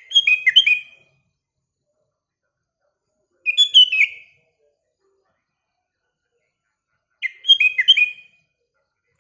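Sooty-headed bulbul (kutilang) singing its short bubbling song phrase three times, about every three and a half seconds, each phrase about a second long.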